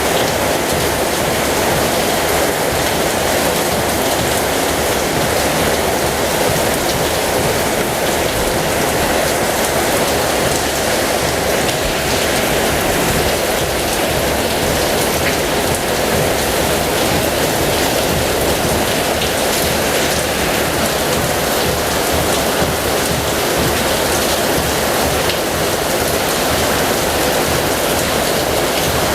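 Heavy rain falling steadily: a dense, even hiss of rain on surfaces with a fine patter of drops, unchanging throughout.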